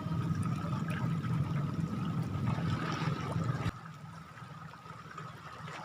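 Water moving at a shoreline with a low rumble under it; the rumble drops away abruptly about four seconds in, leaving a quieter wash.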